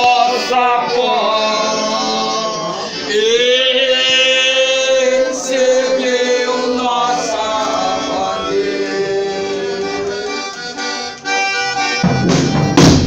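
Brazilian folia music: voices holding long, drawn-out notes over an accordion. Near the end a tambourine-like percussion comes in.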